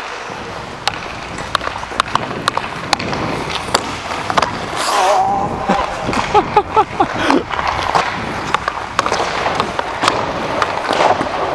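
Hockey play: skates scraping and sticks clacking on the puck in many sharp clicks, with players' voices calling out briefly around the middle.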